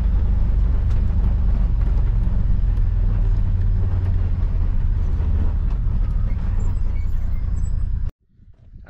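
Steady low rumble of a vehicle driving along, cutting off suddenly near the end.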